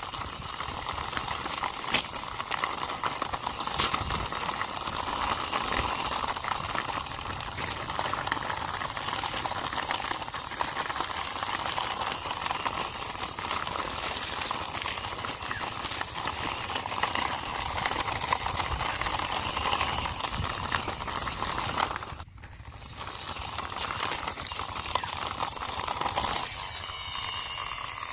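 Toy army truck pushed along the ground by hand, its plastic wheels rolling and scraping in a steady rustling hiss with occasional clicks. The sound drops out sharply about three quarters of the way in, then picks up again.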